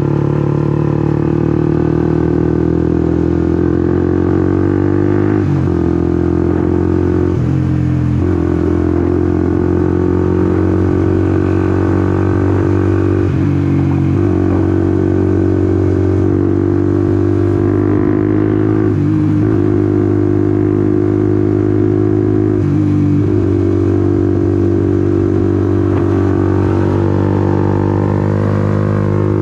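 Honda CBR150R's single-cylinder engine running under way. Its pitch climbs gradually, with about five short dips where it drops and then picks back up.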